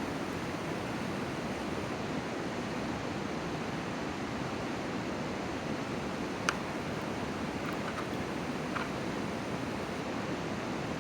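Steady outdoor rushing noise, even and unbroken, with a few faint sharp ticks around the middle.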